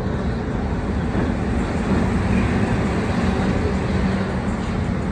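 A moving train running steadily, heard from on board: an even, low rumble with no breaks.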